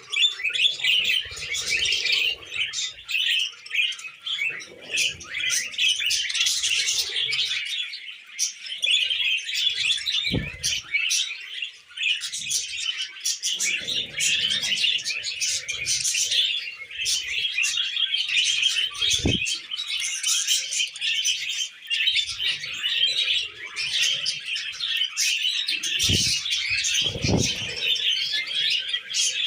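Budgies chattering and chirping together in a dense, unbroken warble of quick chirps. A few dull low thumps come through now and then.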